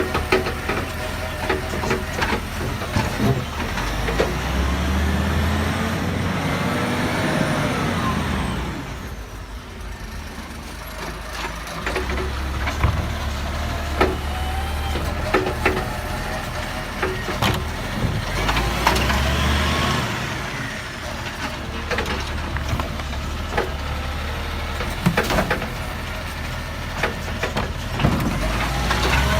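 Garbage truck engine running and revving up and down, with scattered knocks and clunks; it drops quieter for a few seconds about a third of the way through.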